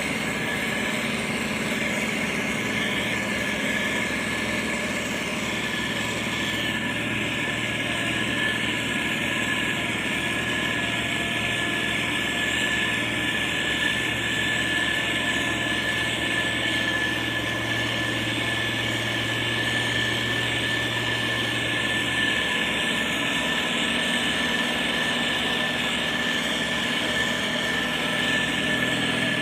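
Heavy diesel construction machinery running steadily, with a constant high whine over the engine noise.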